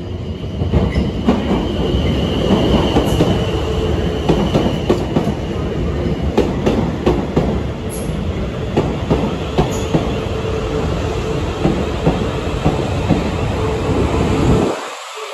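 South Western Railway electric train running through the station close by, its wheels clattering over the rail joints with a steady electric whine over the rumble. The sound cuts off suddenly near the end.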